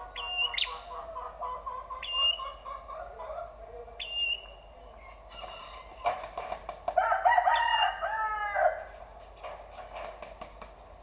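Prinia (prenjak) calls: sharp, high chirps repeated about every two seconds over a run of quicker, lower notes. A rooster crows loudly in the background about six seconds in, lasting a couple of seconds.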